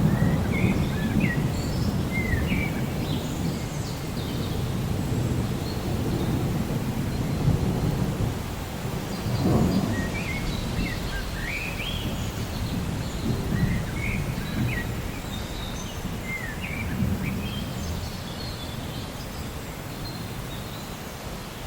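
Rainforest ambience: a low rumble of distant thunder that slowly fades, with a swell about halfway, while birds chirp repeatedly in short, quick rising and falling calls.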